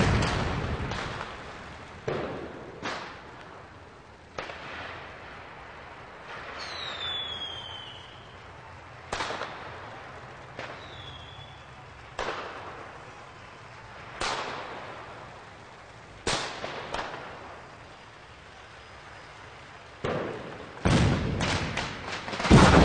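Sharp bangs, one every second or two, each with a short echo, ending in a quick cluster of them. About seven seconds in, a high whistle falls in pitch.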